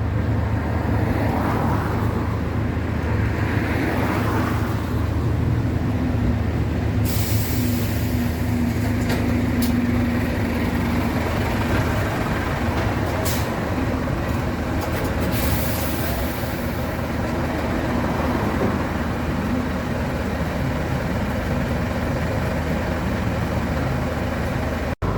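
A large engine running steadily with a low hum, with short bursts of high hiss about seven, thirteen and sixteen seconds in.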